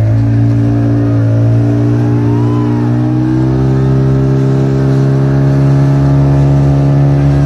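Motorboat engine running steadily under throttle, its pitch slowly rising.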